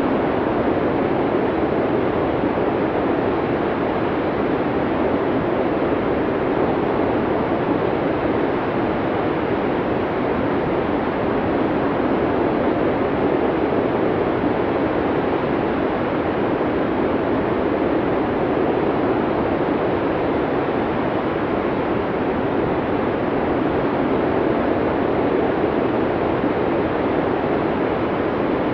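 Blizzard wind blowing in a steady, unbroken rush with no distinct gusts.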